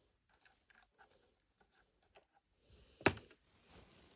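Faint clicks and handling of small plastic objects, with one sharp knock about three seconds in.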